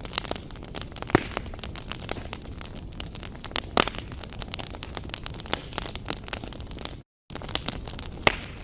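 Wood fire crackling in a fireplace: irregular sharp pops and snaps over a steady hiss, with a few louder pops. The sound cuts out for a split second about seven seconds in.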